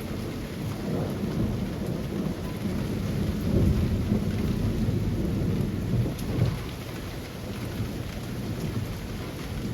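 Steady summer rain falling through leafy trees, with a low rumble underneath that swells about halfway through and then eases off.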